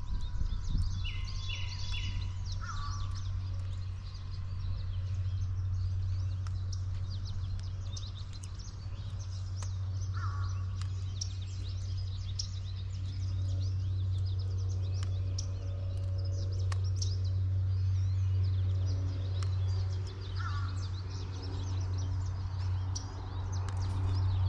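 Scattered bird calls: three quick high notes in a row near the start, then single lower notes about three, ten and twenty seconds in, over a steady low hum that is the loudest sound throughout.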